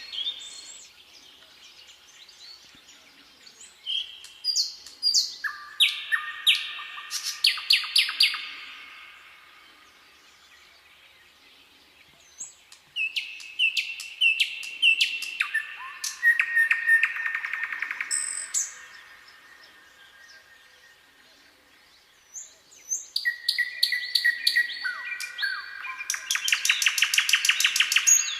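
Songbird singing three long phrases, each a run of clear whistled notes stepping between pitches and breaking into fast trills, with short pauses between phrases.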